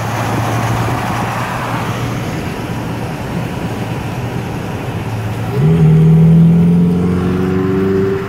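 Road and wind noise from a moving car. About five and a half seconds in, a Ferrari 458's 4.5-litre V8 comes in suddenly and loudly, its note climbing slightly as it accelerates away, then drops off near the end.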